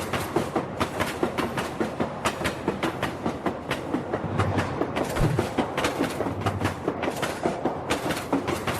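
Train running along the track, its wheels clicking over the rail joints in a quick steady rhythm of about four or five clicks a second.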